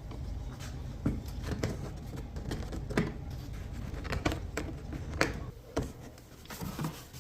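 A box being opened by hand and its packaging handled: a string of irregular clicks, taps and rustles.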